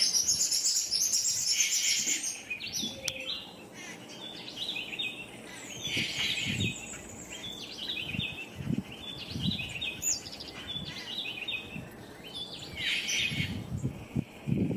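Yucatan jay calling: clusters of short, repeated, high chirping notes, densest at the start and again near the end. A few dull low thumps come in between.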